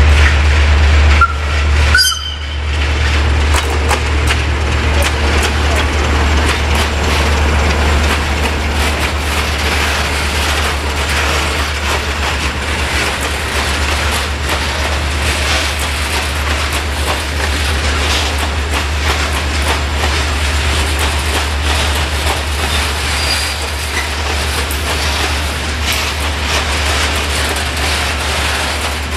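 A train rolling past at close range, its wheels clicking and clattering steadily over the rail joints, over a constant low rumble. The sound breaks off briefly about two seconds in and then carries on.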